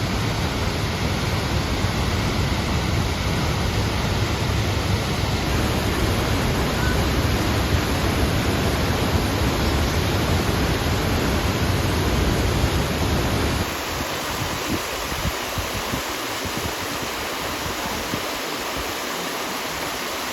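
A waterfall rushing: a steady, even noise of falling water. About fourteen seconds in, the deep rumble drops away and a lighter rush of water continues.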